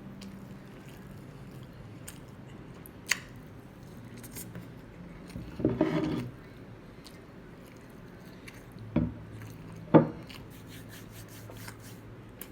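A person eating at close range: a sharp click about three seconds in, a louder sound lasting under a second near the middle, and two knocks about a second apart near the end, typical of a utensil against a plate.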